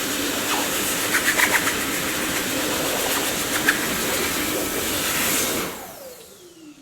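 Dyson vacuum cleaner running with a steady rushing hiss and a few sharp clicks about a second in and near four seconds. About five and a half seconds in it is switched off and its motor whine falls steadily in pitch as it spins down.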